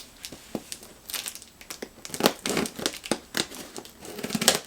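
Hands opening a mailed package: the packaging crinkles and tears in irregular rustling bursts, loudest a little past two seconds in and near the end.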